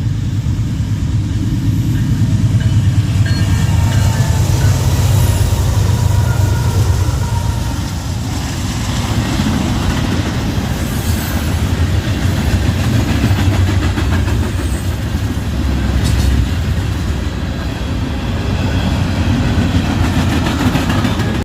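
A train passing close by on the tracks: a loud, continuous rumble of rolling rail cars.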